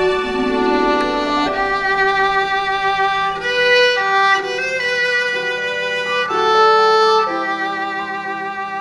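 Violin playing a slow melody of held notes with vibrato, over a steady low accompaniment tone.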